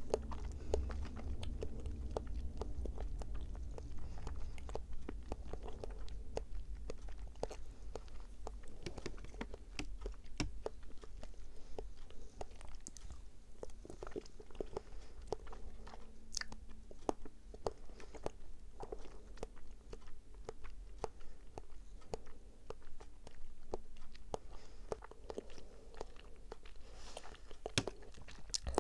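Close-miked chewing of grape konjac jelly balls: soft, wet squishing with many quick little mouth clicks.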